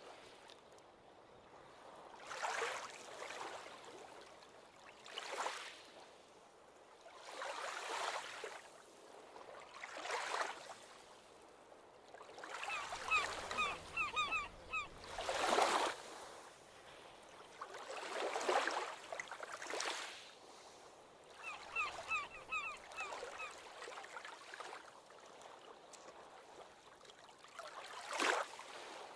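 Ocean waves breaking and washing up the shore, one after another every two to three seconds. The loudest comes about halfway through. Twice, about 13 and 22 seconds in, there is a quick run of short high chirps over the surf.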